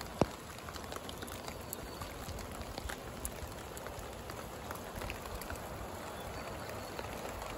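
Steady rain falling, with scattered drops ticking, and one sharp click about a quarter second in.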